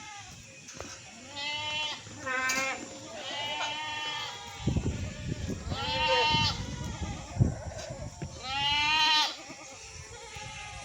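A goat bleating about five times, each bleat a wavering, quavering call lasting under a second. Low rustling and a sharp knock come in the middle.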